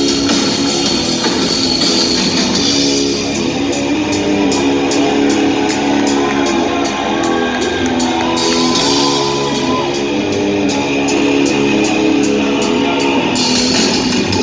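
Hard rock band playing live and loud: distorted electric guitar riffing over bass and drums, with no singing.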